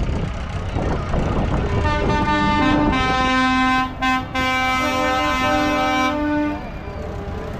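A vehicle horn sounding a long multi-tone blast that steps between pitches, broken briefly about halfway, over the low running noise of passing vehicles.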